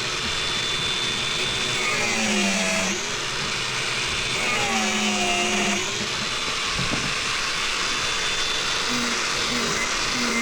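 Electric power tool running continuously with a steady whirring noise, its pitch wavering briefly a few times in the first half.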